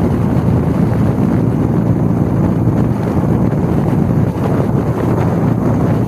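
Wind rushing over the microphone on a moving Harley-Davidson motorcycle, with the engine's steady low rumble underneath.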